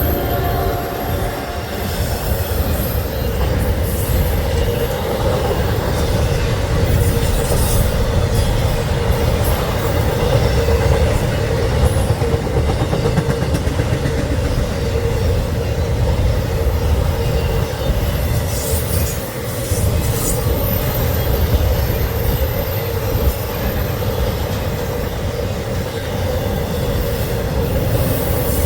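Freight train passing close by: a steady rumble of wheels on rail with intermittent high-pitched wheel squeal. The tail of a horn blast cuts off about a second in.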